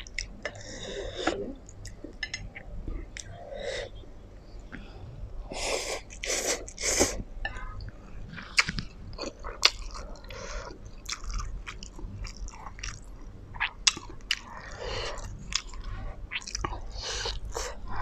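Close-miked chewing and wet mouth sounds of someone eating black bean noodles and fried braised pork, with irregular smacks and clicks.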